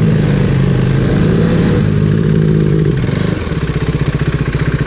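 Motorcycle engine running at low revs while rolling slowly, then dropping to a steady, evenly pulsing idle about three and a half seconds in.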